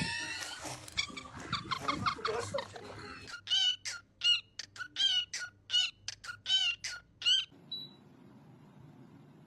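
Parrot vocalizing: a few seconds of jumbled voice-like chatter, then a run of about ten short, evenly repeated squawking calls, each with a quick rise and fall in pitch, ending about two seconds before the end.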